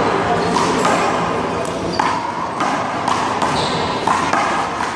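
Rubber handball rally: several sharp smacks of the small ball being hit by hand, striking the wall and bouncing on the court, over steady background noise.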